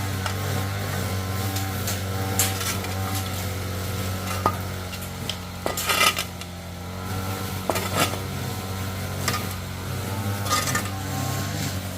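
Food frying in a pan while a utensil stirs it, with scattered clinks and scrapes of metal against the pan; the loudest clatter comes about halfway through.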